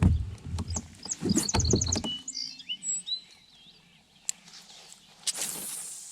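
Small birds singing: a quick run of about six repeated high notes, then a few curved whistled notes. Under it, in the first two seconds, come thumps and rustling of gear being handled in a kayak, with a few sharp clicks later on.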